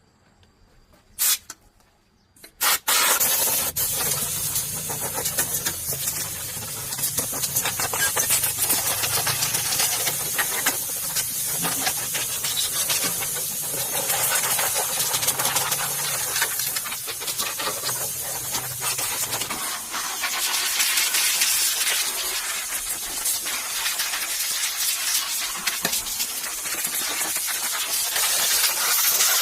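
Steady, loud hissing spray that starts sharply after two short clicks about two and a half seconds in, with a low hum under it that stops about two-thirds of the way through.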